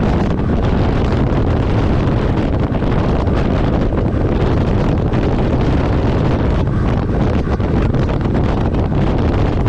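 Steady low drone of a truck on the road: engine and road noise with wind buffeting the microphone, unchanging throughout.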